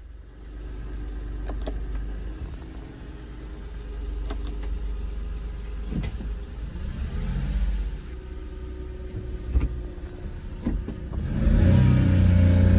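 2005 Mitsubishi Minicab kei truck's small three-cylinder engine running, with a few scattered clicks and knocks. About eleven seconds in it gets much louder as the revs rise.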